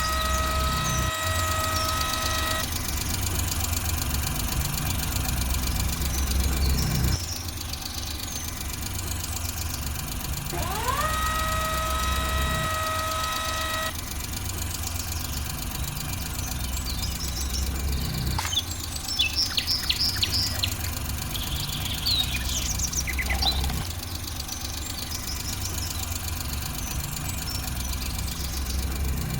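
Tractor engine running steadily with a low, chugging rumble. A horn sounds twice: each blast rises in pitch, then holds for about two seconds. Some clicking and rattling comes near the middle.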